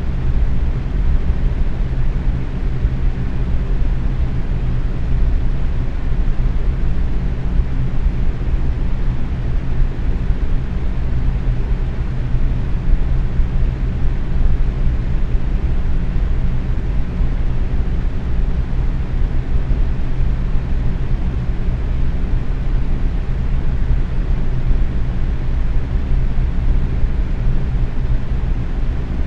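Box fan running steadily at medium speed: a constant low whoosh of moving air with a faint hum from the motor and blades.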